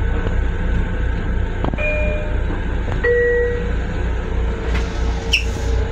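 Steady low rumble of a Long Island Rail Road M7 electric train car running, heard from inside its restroom. Two chime notes sound over it, the second lower, about two and three seconds in, ahead of a station announcement.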